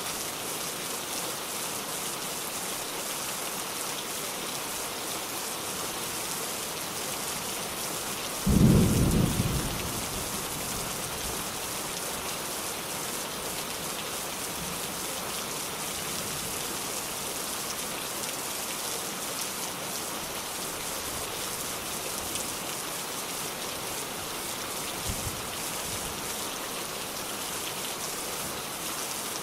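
Steady rain hissing on surfaces, with one short, loud rumble of thunder about a third of the way in and a much fainter one near the end.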